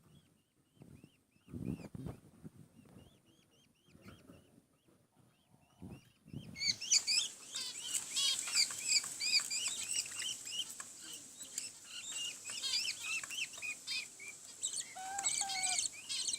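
Budgerigar chicks cheeping in the nest: faint, evenly repeated cheeps with a few low rustling knocks, then about six and a half seconds in a loud, rapid, dense chorus of chirping as the chicks beg to be fed.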